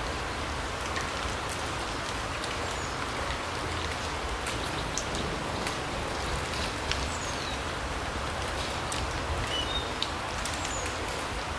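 Steady patter of rain drops in a larch forest, with many small separate drip ticks. A few short, high bird chirps fall in pitch here and there.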